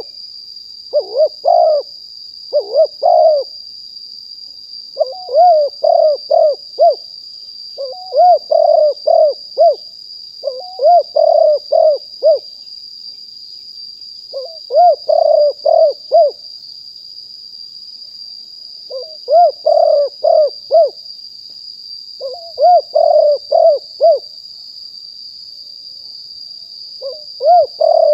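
Spotted dove cooing: repeated phrases of several short arching coos each, coming every few seconds with some longer pauses between them.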